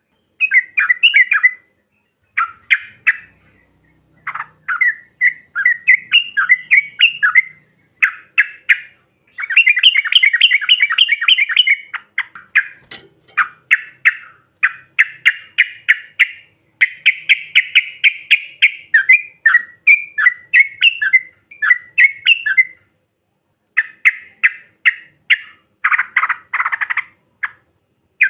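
Yellow-vented bulbul (trucukan) singing: a run of short, bubbly, chattering song phrases, one after another with brief pauses between them.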